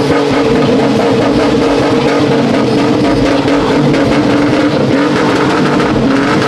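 Car engine held at steady high revs, one even pitch throughout.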